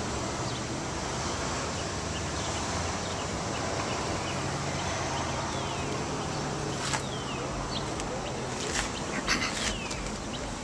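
Steady outdoor background noise with a low hum and faint short chirps. A few sharp clicks come near the end.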